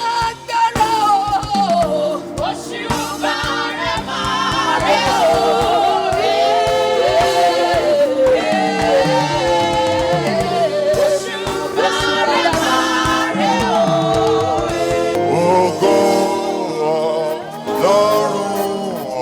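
Gospel music: a group of voices singing together over drums, with the drum strikes thinning out in the last few seconds.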